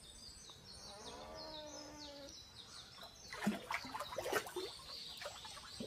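Beaver splashing in shallow water as it dives, a cluster of splashes about three and a half to four and a half seconds in. Before it, a run of short, high, falling chirps and a brief whining call.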